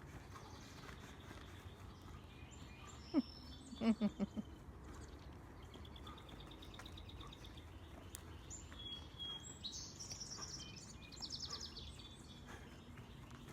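Birds chirping and trilling in short runs of quick high notes over a steady low outdoor rumble, with a few short, louder low sounds about three to four seconds in.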